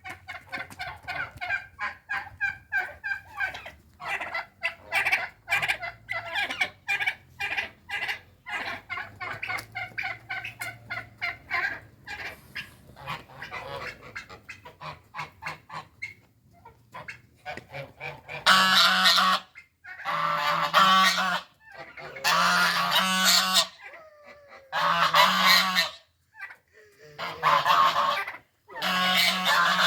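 Geese honking: a fast run of short honks, then after a quieter stretch a series of loud honks about a second long each, with short pauses between them.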